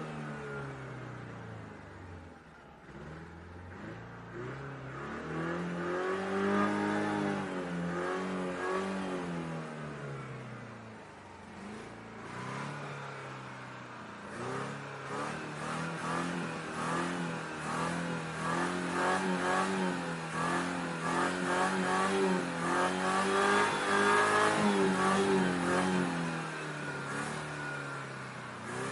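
Car engine being revved repeatedly, its pitch climbing and falling in long swells and held high for several seconds at a time.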